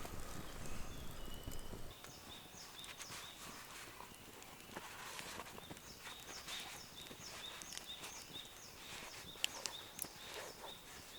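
A bird in the woods repeating a short high note about two or three times a second, in two runs with a pause between. A few faint sharp clicks come near the end.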